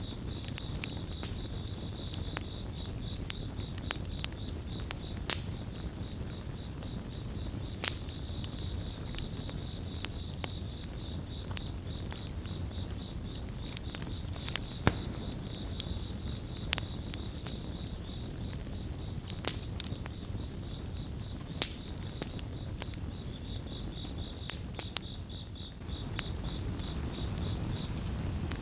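Campfire crackling, with sharp pops every second or so over a low rumble of burning wood, and a cricket chirping in a steady, rapidly pulsed high tone behind it.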